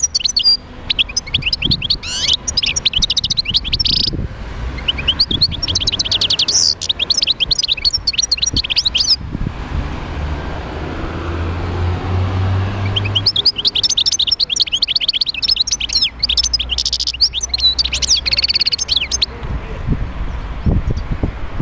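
European goldfinch singing: three bouts of fast, liquid twittering with short pauses between them, the last starting about halfway through.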